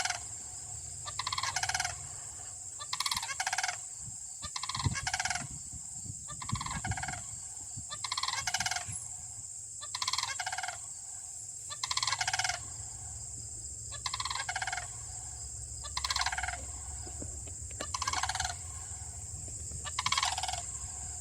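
A pair of sandhill cranes calling back and forth with loud rolling, rattling bugles. The calls come every second or two, often two in quick succession, as the two birds answer each other.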